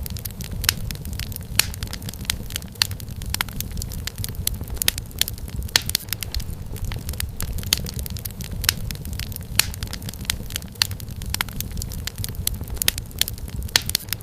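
Wood fire crackling: many sharp, irregular pops and snaps over a steady low rumble of flames.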